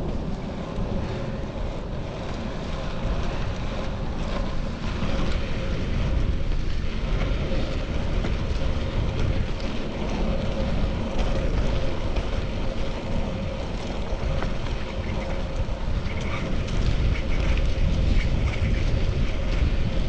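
Wind buffeting an action camera's microphone while cycling, with a steady low road and traffic rumble underneath and a faint constant hum.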